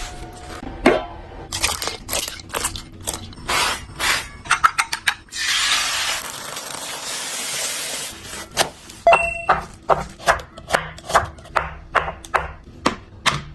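Food containers and packaging being handled while restocking a refrigerator: a run of clicks, knocks and light scrapes, with a steady rushing hiss for about three seconds in the middle. Toward the end come quick, evenly spaced clicks, about two a second.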